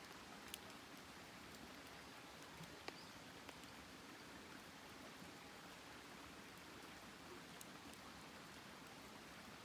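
Faint crackling of a wood campfire: a steady low hiss with a few small sharp pops.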